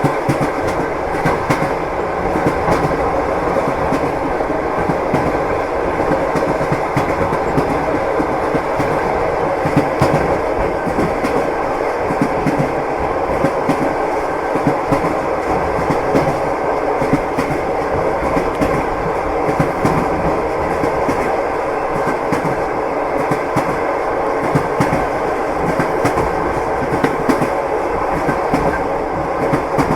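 Passenger train running at steady speed: the continuous rumble of the carriage with the clickety-clack of wheels passing over rail joints.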